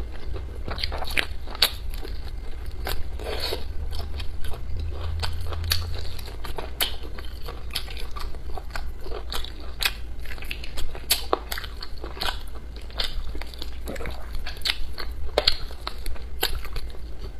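Close-miked eating: biting and chewing braised pork on the bone, with many sharp crackly clicks and wet mouth sounds at irregular intervals.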